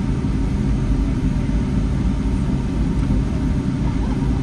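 Steady low rumble inside the cabin of a Boeing 757-300 airliner, heard from a window seat: jet engine and airflow noise with a light hiss above it.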